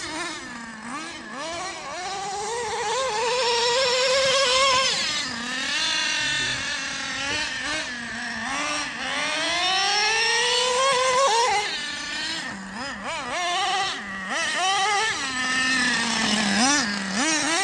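Nitro RC truck's small glow-fuel engine running under throttle. Its pitch climbs in two long sweeps as it accelerates, drops back between them, and settles to a steady idle near the end.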